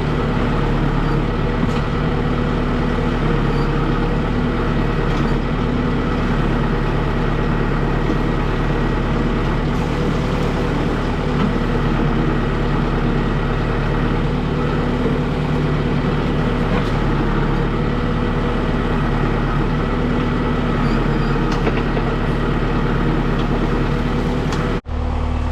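Kubota M6060 tractor's diesel engine running steadily under load, powering the backhoe at work. It cuts off abruptly for a moment just before the end.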